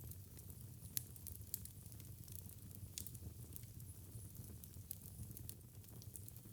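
Wood fire crackling in a fireplace: scattered sharp pops and snaps, the loudest about a second in and about three seconds in, over a soft, steady low rumble of the flames.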